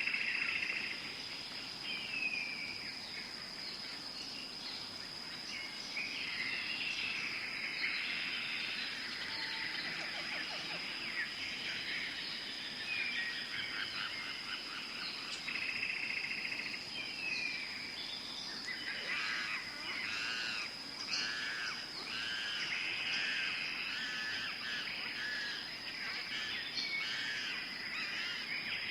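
Tropical forest ambience: many birds chirping and whistling over a steady high-pitched insect drone, with a run of quick repeated calls about two-thirds of the way through.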